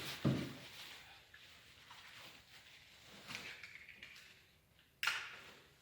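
Fabric camouflage cover on a boat being handled as its window flap is closed: a knock just after the start, soft rustling, and a sharp snap about five seconds in as a clasp is fastened.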